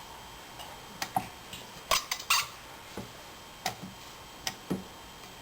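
A spatula scraping and knocking against a stand mixer bowl: a string of irregular clinks and taps, loudest a couple of seconds in.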